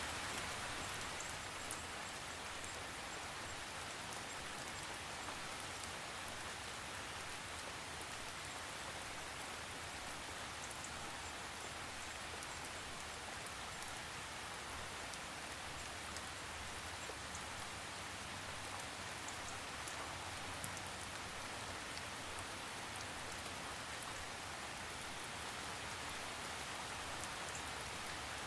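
Steady rain falling, an even hiss with scattered faint drop ticks, and no thunder.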